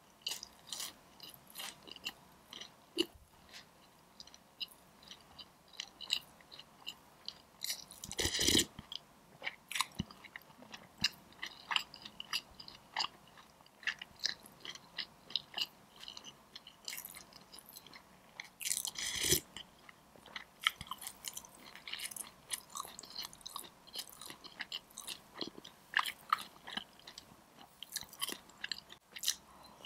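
Close-miked chewing of food, full of small wet clicks and crunches, broken twice by louder slurps of beef soup from a spoon, about a third of the way in and again about two thirds in.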